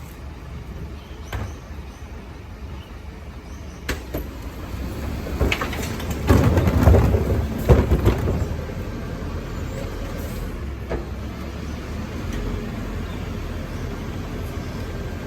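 Garbage truck engine running steadily. It grows louder about six to eight seconds in, with several sharp knocks, then eases back to a steady rumble.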